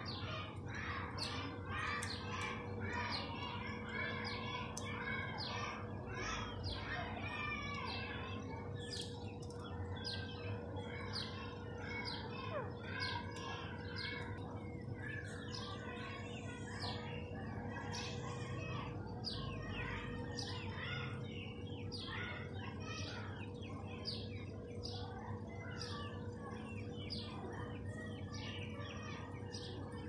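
Birds chirping: a dense, unbroken run of short chirps.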